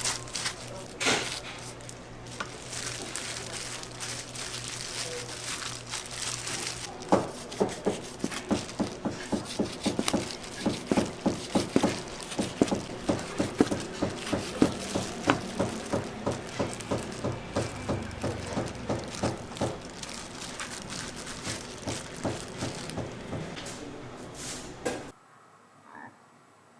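Kitchen knife chopping on a cutting board in a busy kitchen, a few scattered knocks at first, then a steady run of about three to four strokes a second that slows and fades; the sound cuts off sharply near the end.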